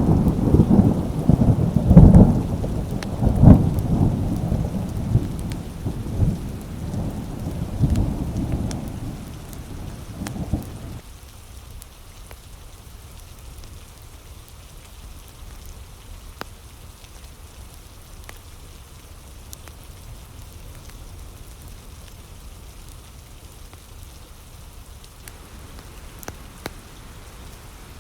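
A long roll of thunder rumbling and swelling several times, fading out and then cutting off about eleven seconds in. Steady rain patters on through the rest.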